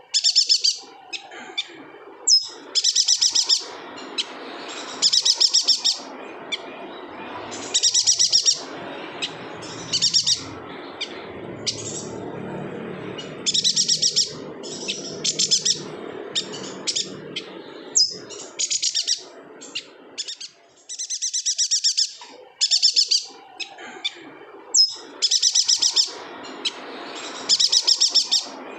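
Chestnut-crested yuhina singing in short bursts of rapid, high chattering notes, repeated every second or two over a faint steady background noise.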